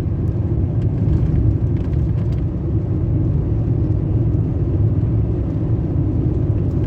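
Steady engine and road rumble of a car on the move, heard from inside the cabin.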